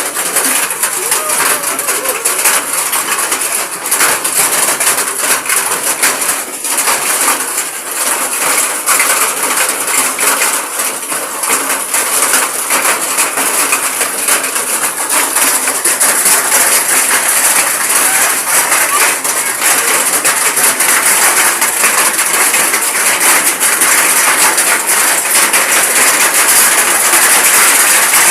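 Heavy rain mixed with hailstones, the hail striking hard surfaces as many sharp clicks over a steady hiss of rain. It grows a little louder about halfway through.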